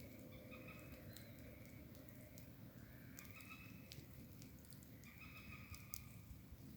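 Faint bonfire crackling: sparse sharp clicks over a low rumble.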